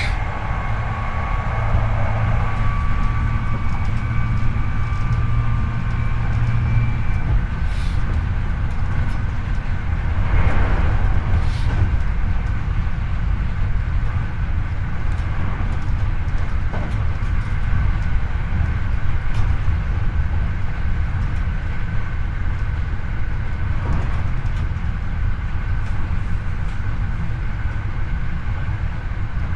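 Hankyu 8300 series electric train heard from the floor inside the car over a bogie, running with a steady wheel-on-rail rumble. A steady whine from the Toyo IGBT-VVVF traction motors stops about seven seconds in, and there is a brief louder swell about ten seconds in.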